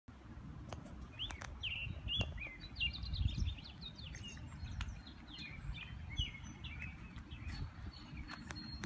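Songbirds chirping and singing in quick, varied phrases, busiest in the first half and thinning out toward the end, over a low, uneven rumble on the microphone.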